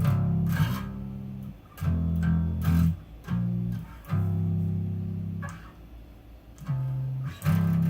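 Electric bass guitar playing a line of plucked low notes, some cut short and some left to ring, with a quieter gap shortly before the end. The part is played in the double hits of the song's bass line.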